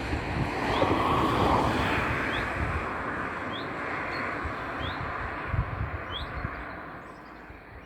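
Wind rushing over the microphone, fading away toward the end, while a small bird repeats a short rising chirp about once a second.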